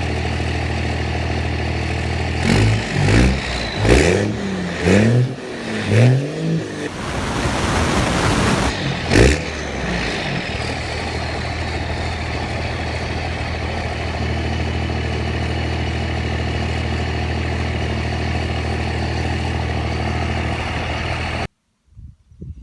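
A 1999 Dodge Cummins 5.9 L 24-valve straight-six turbo diesel idles at the exhaust. Starting about two and a half seconds in, it is revved in five quick blips, then once longer with a hiss, then blipped sharply once more. It then settles back to a steady idle, with a faint falling whistle after the revs.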